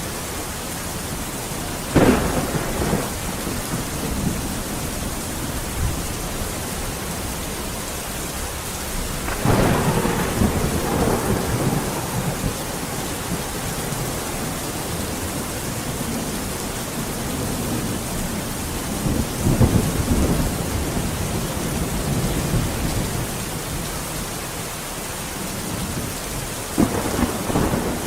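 Steady rain falling, with thunder cracking and rumbling four times: about two seconds in, near ten seconds in (a longer roll), near twenty seconds and just before the end.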